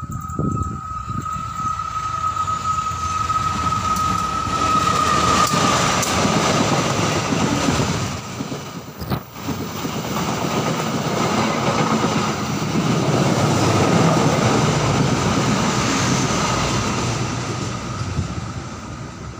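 Diesel-hauled passenger train passing close by: the noise of the locomotive and coaches rolling over the rails builds up, breaks off briefly about nine seconds in, swells again and fades near the end as the train moves away. A steady high tone sounds through the first few seconds.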